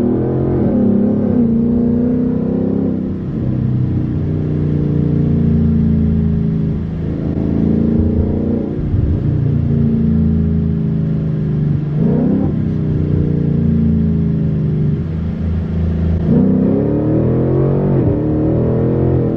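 Ford Mustang engine pulling through the gears, its revs rising and falling several times as it shifts.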